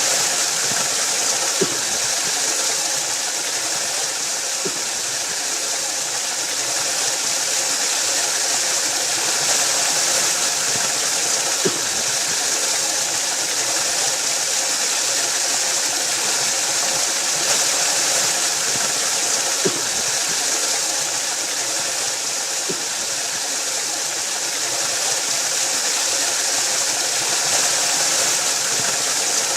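Waterfall: water rushing and falling in a steady, unbroken hiss, with a few faint splashes standing out now and then.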